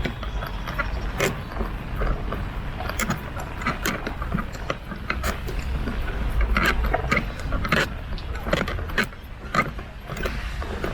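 Umbrella frame creaking and clicking in short, irregular squeaks, over the low rumble of street traffic.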